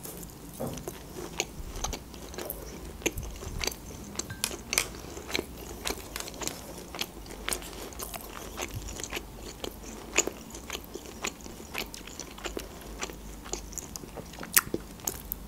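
A person chewing a mouthful of grilled shashlik meat close to the microphone, with small mouth clicks at irregular intervals, several a second.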